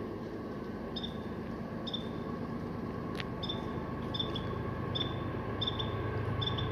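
Low rumble of an approaching CSX freight train, growing slowly louder. Short high chirps repeat about once a second above it, coming more often near the end, with one sharp click about three seconds in.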